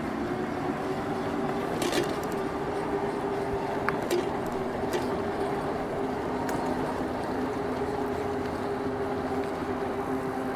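Riding noise on a moving e-bike in city traffic: a steady rush of wind and tyres with a steady hum under it, and a few faint clicks.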